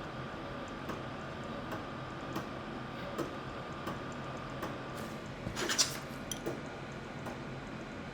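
Computer mouse clicks and keyboard taps, scattered about once a second, with a quick run of several clicks a little before six seconds in, over a steady hum.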